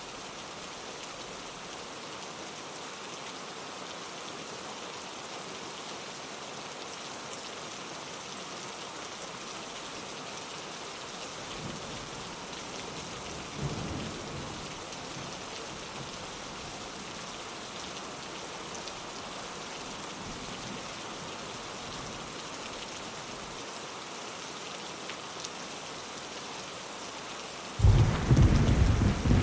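Steady rain falling on a window pane, with a faint roll of distant thunder about midway and a loud, sudden thunderclap rumbling in near the end.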